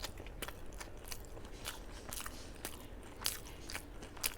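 Close-miked eating: chewing of a mouthful of food, with irregular small wet mouth clicks and crunches, the loudest a little past three seconds and near the end.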